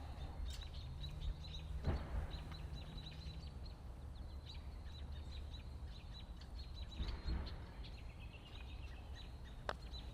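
Small birds chirping in quick repeated notes over a steady low outdoor rumble, with a single sharp click near the end: a putter striking a golf ball.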